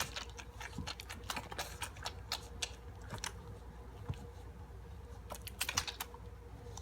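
Chocolate Labradors crunching dry kibble: a run of irregular, crisp crunches in clusters, over a faint steady hum.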